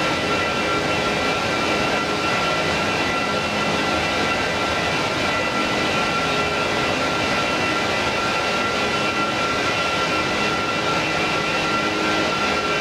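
Airbus A330-300 jet engines running steadily with a sustained high whine over a broad rush of engine noise.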